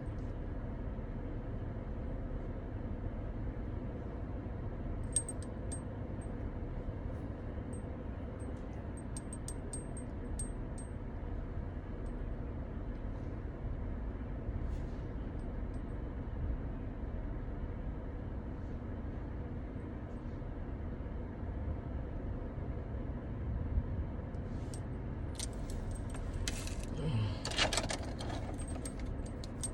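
Small metal objects jingling and clicking against a steady low rumble: a few scattered clicks in the first half, then a busier spell of jingling and rattling near the end.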